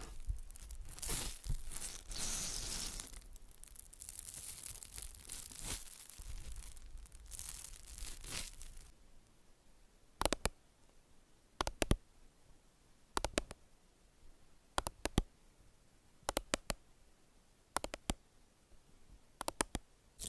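Rustling, tearing sounds for about nine seconds, then a series of sharp double clicks about every second and a half.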